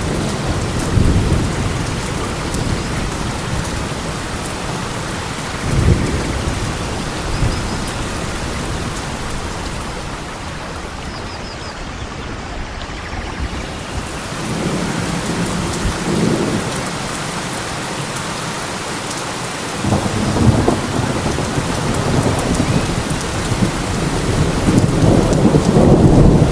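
Steady heavy rain falling on a forest, an even hiss, with low rumbles that swell several times and grow stronger near the end.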